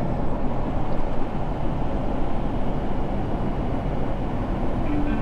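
A semi truck's engine and road noise heard inside the cab while driving, a steady low rumble.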